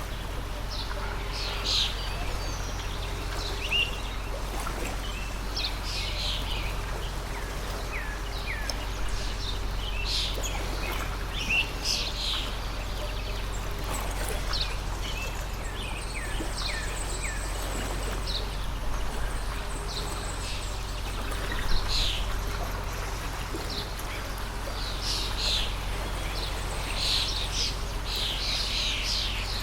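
Stream water flowing steadily, with many short bird chirps over it. There is one sharp tap about two-thirds of the way in.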